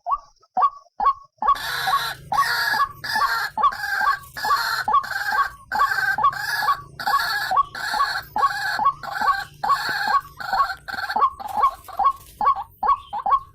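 White-breasted waterhen (ruak-ruak) calling, a short call repeated quickly about three times a second. From about a second and a half in, a second, louder series of calls overlaps it.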